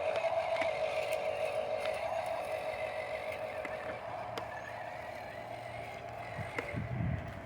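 Dump truck running with a steady whine that eases off slightly about halfway, with some low rumble near the end.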